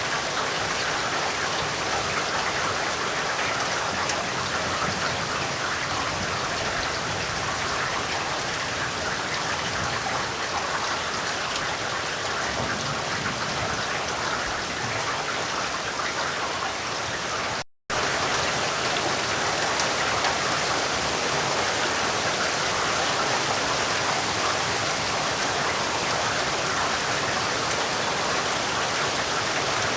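Steady rain falling, an even hiss of many drops, briefly cutting out to silence for a split second about two-thirds of the way through.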